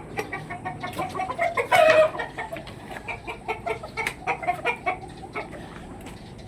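Backyard chickens clucking, many short calls overlapping, with one louder call about two seconds in.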